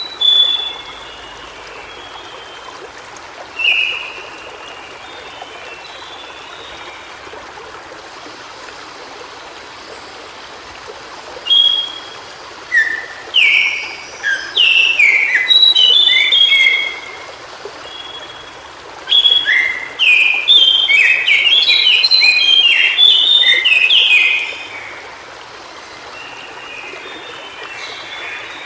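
White-browed shortwing singing: a few short high phrases, then two long, rapid, jumbled songs of quick notes, the first about a third of the way in and the second past halfway. A steady rush of running water sits under the song.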